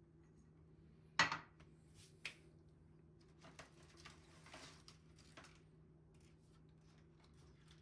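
Dishes and cutlery being handled: a sharp clink about a second in, a lighter clink a second later, then a couple of seconds of softer handling noise with small clicks.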